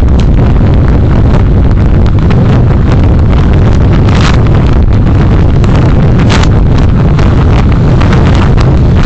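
Heavy wind buffeting on the microphone of a moving vehicle in city traffic, a loud, steady low rumble with road and engine noise underneath. Two brief hissy bursts stand out about four and six seconds in.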